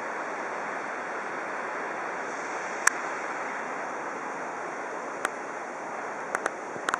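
Steady rush of falling water from the 186 m Casca D'anta waterfall on the São Francisco River. A few sharp clicks cut through it: one about three seconds in, one about five seconds in, and a cluster near the end.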